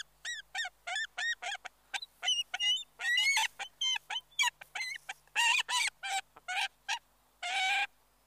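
Bald eagle calling: a run of short, high, piping notes, about two or three a second, with a few longer notes and a longer one near the end.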